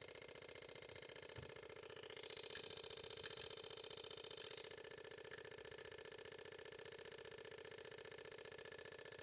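Small Graham Industries reversing live steam engine running fast, with a rapid, even exhaust beat. A louder hiss of steam rises about two and a half seconds in and drops away about two seconds later.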